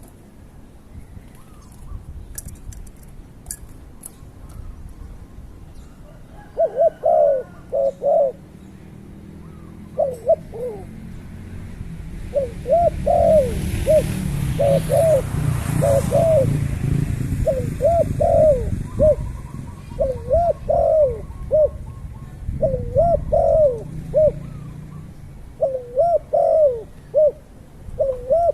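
A bird calling over and over in short, rising-and-falling notes that come in quick groups, starting about six seconds in. A low rushing sound swells and fades in the middle.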